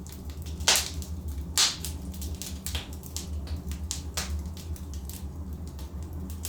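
Burning logs in a fireplace crackling: irregular sharp snaps and pops, two loud ones within the first two seconds, over a steady low rumble.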